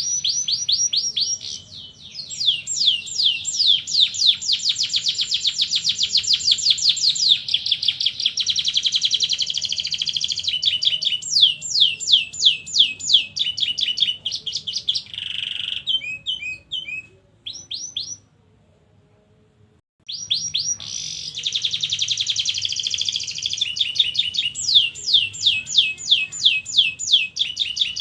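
Domestic canary singing long rolls: rapid trains of repeated high notes, some phrases very fast and others slower, with a break of about two seconds past the middle before the song picks up again.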